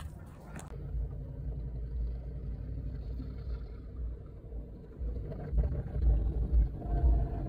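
Car engine idling, heard from inside the cabin as a steady low hum. From about five seconds in, uneven low bumps come from the phone being handled.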